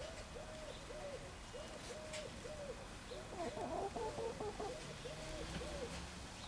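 A bird cooing softly in repeated phrases of about three rising-and-falling notes, with a second, busier bird call overlapping for about a second around the middle.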